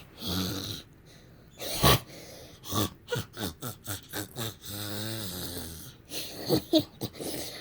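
A child making battle sound effects with his voice while playing with stretchy action figures: a string of short rasping, snorting noises, a sharp burst about two seconds in, and a longer wavering growl about five seconds in.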